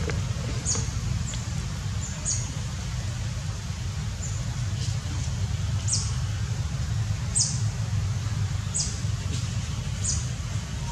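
A bird giving short, high, downward-sweeping chirps about once a second, over a steady low rumble.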